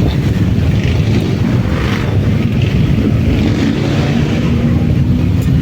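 Motorcycle engines running with a steady low rumble, and a tone that rises slowly over the last couple of seconds as an engine picks up revs.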